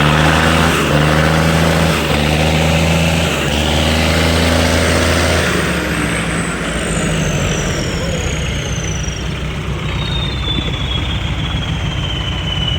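Diesel tractor engine pulling hard at high revs under load, then throttling back about five and a half seconds in to a rougher, lower-speed run. Through the second half a thin high whine glides slowly down in pitch.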